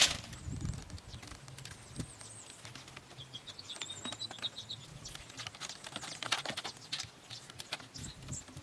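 Small birds chirping in short high series, over a scatter of light clicks and taps.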